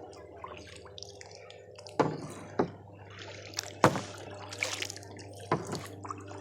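Kayak paddle strokes: the blades dipping into the water, with water dripping and trickling off them and a few sharp splashes at uneven intervals.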